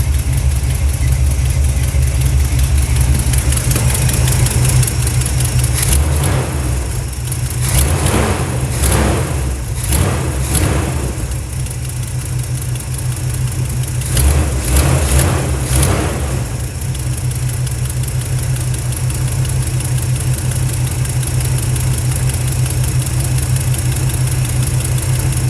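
Freshly tuned-up small-block Chevy V8 in a box Caprice idling steadily, with a few short revs in the middle; it has a known exhaust leak.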